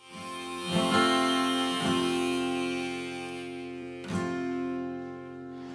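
Acoustic guitar strummed about three times, each chord left to ring and slowly fade.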